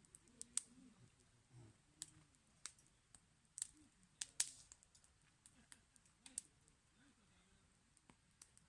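Wood fire crackling: irregular sharp pops and snaps from burning firewood, a few of them much louder than the rest.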